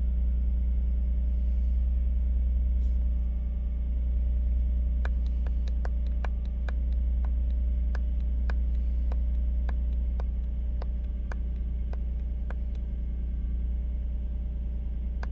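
Nissan Murano's 3.5-litre V6 idling, a steady low hum heard inside the cabin. From about five seconds in, a run of about twenty small clicks, quick at first and then about two a second, as the Actron scan tool's arrow button is pressed to scroll through the live engine data.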